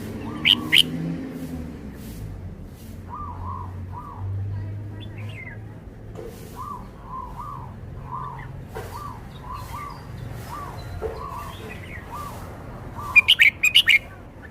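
Red-whiskered bulbul singing: a short loud phrase about half a second in and a quick run of loud notes near the end, with quieter short repeated chirps in between.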